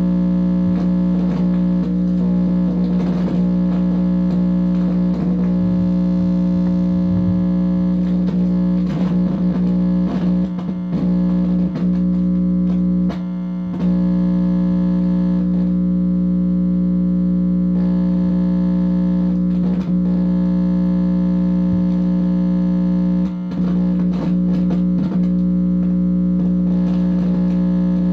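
Amplified electronic hum: a steady, loud buzz made of many stacked tones, with wavering, sliding tones over it and two brief dropouts. The owner takes it for the signal of a directed-energy assault.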